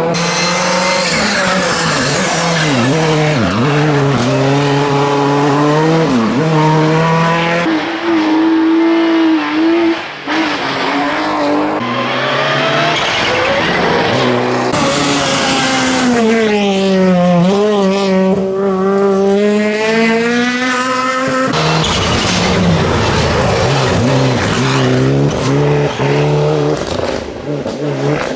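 Rally cars at full effort on a stage, one after another. Their engines rev up and drop back through gear changes and braking, with tyre noise.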